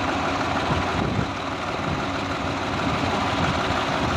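Swaraj tractor diesel engine running steadily, with a dense, even low firing beat.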